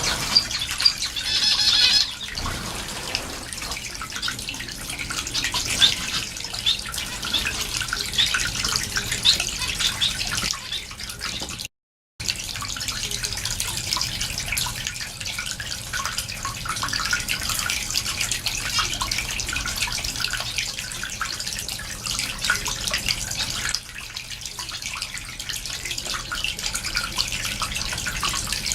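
Small cage finches chirping and twittering together, many short high calls overlapping without pause.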